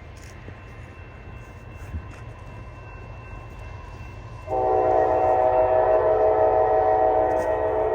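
Locomotive multi-chime air horn sounding one long, loud blast starting about halfway through, over a steady low rumble.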